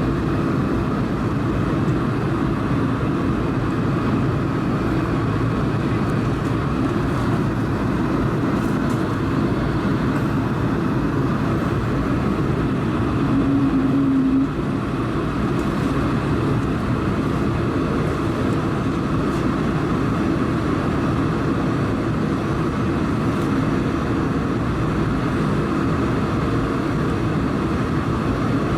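Airbus A220-300 cabin noise in descent: the steady rush of airflow and the Pratt & Whitney PW1500G geared turbofans. About halfway a short low hum stands out, then cuts off and the noise drops slightly.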